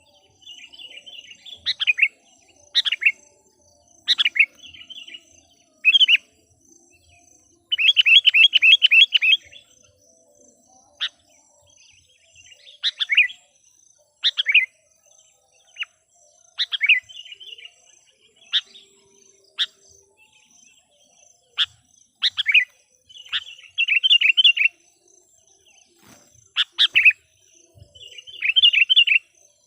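Sooty-headed bulbul (kutilang), a decoy bird calling to lure wild bulbuls: short sharp notes and chattering runs every second or two, with a loud fast run of notes about eight seconds in. A faint steady high tone runs underneath.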